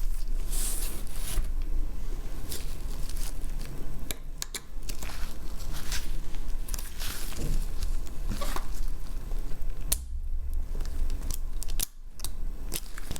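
Close handling noises of a phone being taken apart: irregular small clicks, scrapes and rustles of tools and parts, over a steady low hum.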